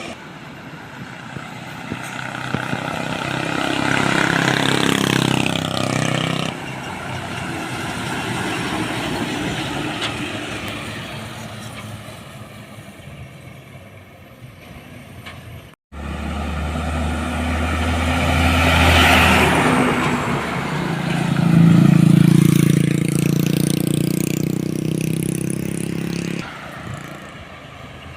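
Heavy trucks passing on a road one after another, their engines swelling and fading as each goes by. The sound cuts off abruptly about halfway through and starts again.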